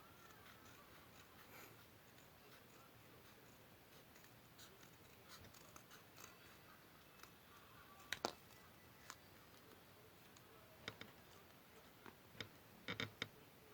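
Faint, scattered snips and clicks of scissors cutting paper, with a sharper double click about eight seconds in and a quick cluster of clicks near the end.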